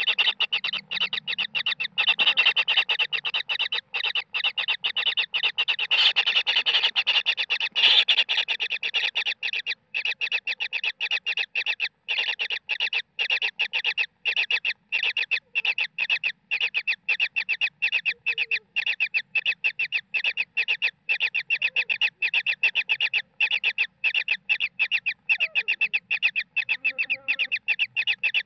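Kingfisher chicks calling: a steady, rapid train of short high-pitched calls, several a second, the typical begging of nestlings waiting to be fed.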